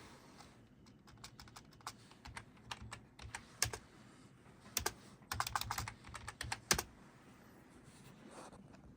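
A run of quick, irregular clicks and taps, densest in a flurry about five to seven seconds in.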